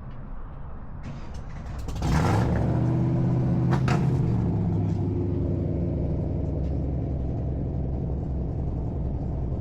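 A car engine starts about two seconds in, with a brief burst as it catches and a short rise in pitch. It then settles into a steady, loud idle with a sharp click or two.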